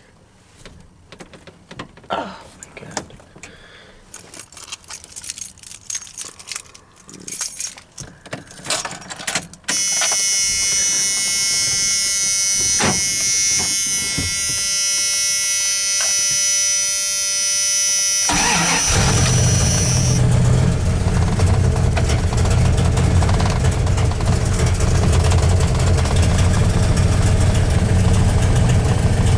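Clicks and rustling, then a steady high tone for about eight seconds, then the 1993 Dodge Dakota's 318 V8 cranks and catches about 18 seconds in and settles into a rough idle.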